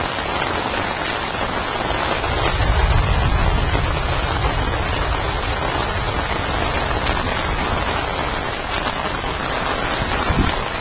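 Heavy rain falling steadily, with a dense, even hiss of rain on the ground and standing water, and a brief low rumble of wind on the microphone or handling a few seconds in.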